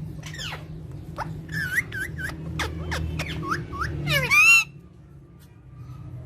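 Parrot calling in a quick run of short chirps and sliding whistles, then one loud harsh squawk about four seconds in.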